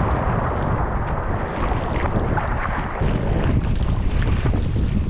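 Strong wind buffeting the microphone over rushing and splashing water, as a surf ski runs downwind through wind-driven waves.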